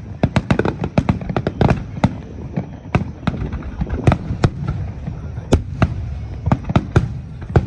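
Aerial fireworks bursting in a rapid finale barrage: many sharp bangs a second at irregular spacing, over a continuous low rumble.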